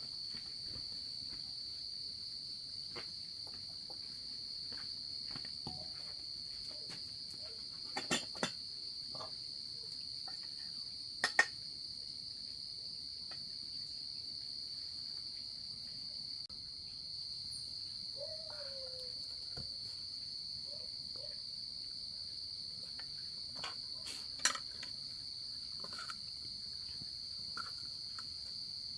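Steady high-pitched insect chorus trilling without a break, with a few sharp knocks, about 8, 11 and 24 seconds in, standing out above it.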